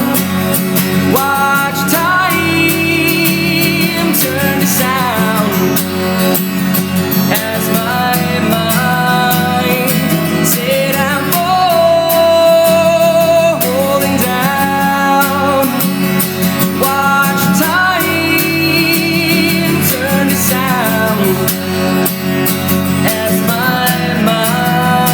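Live acoustic music: a plucked acoustic guitar under a sung melody, its long notes held with vibrato.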